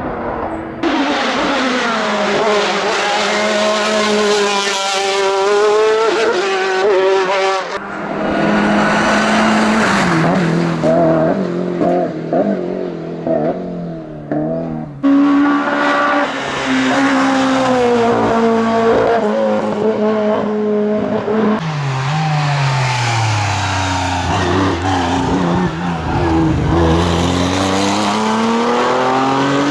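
Hillclimb race cars driven hard, engines revving up through the gears and dropping in pitch on downshifts. The sound comes as several separate passes joined by abrupt cuts.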